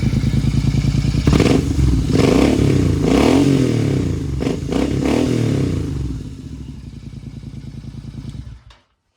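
Royal Enfield Continental GT 650's parallel-twin engine running through a new aftermarket exhaust with the dB killers removed: blipped several times with the pitch rising and falling, settling back to an even, pulsing idle, then switched off near the end, when the sound stops suddenly.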